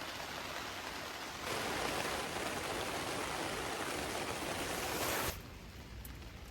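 Steady rain falling, an even hiss that jumps louder about a second and a half in and drops abruptly to a quieter hiss a little after five seconds.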